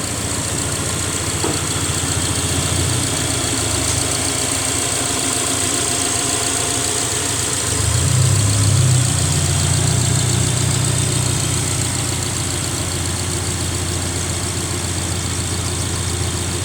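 Subaru Outback's horizontally opposed engine idling steadily, swelling slightly in level about halfway through.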